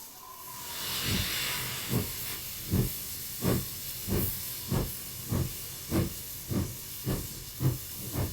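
Steam locomotive starting away: a hiss of steam in the first second, then exhaust chuffs that quicken steadily from just over one a second to nearly two a second.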